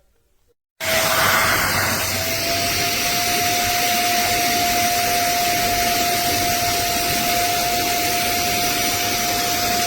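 A 450 W portable wet upholstery vacuum cleaner's motor switches on abruptly about a second in. It runs loud and steady with a single whine that rises slightly and then holds.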